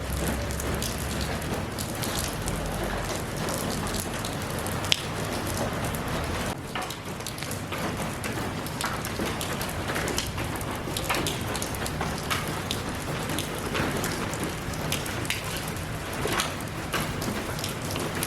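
Steady rain falling, an even hiss with many individual drops tapping on a surface and one sharper drip about five seconds in.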